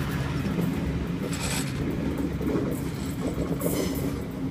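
Sydney Trains Waratah double-deck electric train pulling out of the platform and moving away, with a steady rumble of motors and wheels. Two brief high hissing bursts come about a second and a half in and near four seconds in.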